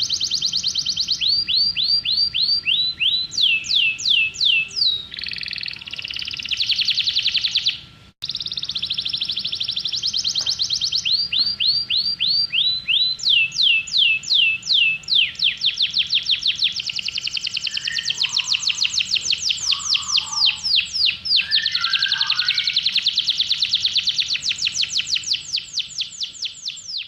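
Songbird singing a long song of rapid high notes, each sliding downward, strung together in fast trills. The song breaks off for a moment about eight seconds in, then carries on.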